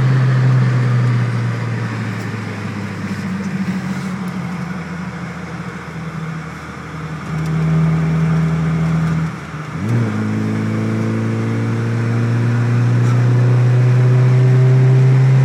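Ford Escort cabriolet's engine heard from inside the cabin at speed: the engine note eases off in the first half, breaks briefly a little past halfway with a quick rev during a gearchange, then pulls again with its pitch and loudness climbing steadily as the car accelerates.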